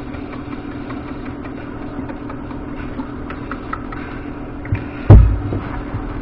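Steady mechanical hum with a few faint clicks, and one loud thump about five seconds in.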